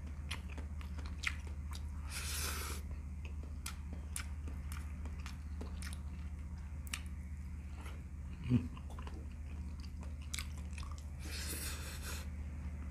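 Close-up mouth sounds of a person chewing and biting into saucy fried chili chicken eaten by hand, with many small wet clicks. There are two short noisy rushes, about two seconds in and near the end, a brief low hum from the throat about eight seconds in, and a steady low electrical hum underneath.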